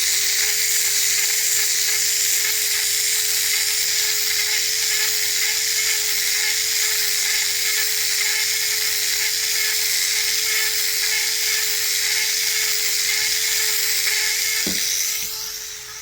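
Small electric resin mixer running steadily with a high whine, its paddle stirring a cup of resin, until it stops about fifteen seconds in.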